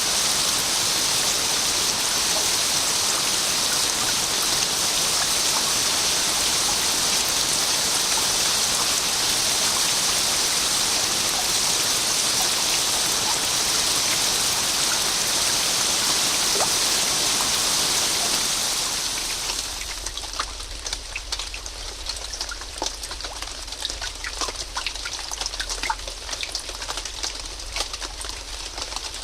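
Steady heavy rain, a dense even hiss. About two-thirds of the way through it gives way to lighter rain, with many separate drops heard striking a surface over a faint low hum.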